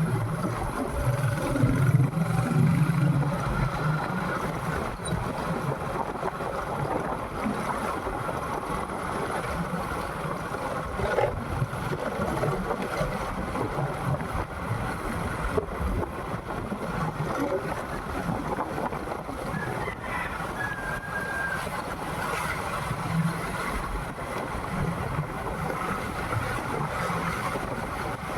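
Motorcycle riding at road speed: the engine hums steadily under a constant rush of wind over the microphone.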